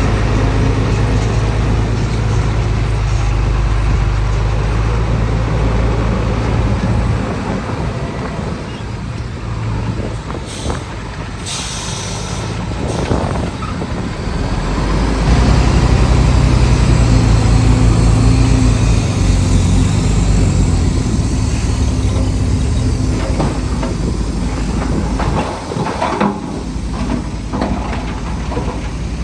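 Heavy diesel engines of a bulldozer and a dump truck working, the engine note rising and falling with load. A short hiss comes about eleven seconds in.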